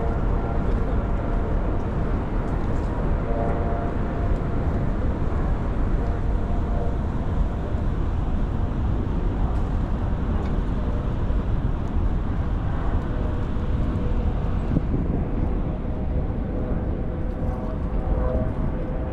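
Steady roar of Niagara Falls' falling water mixed with wind buffeting the microphone, a constant heavy rumble without breaks.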